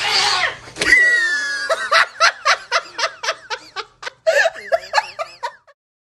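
A person laughing in rapid bursts, about four a second, after a short cry in the first second; the laughter stops abruptly near the end.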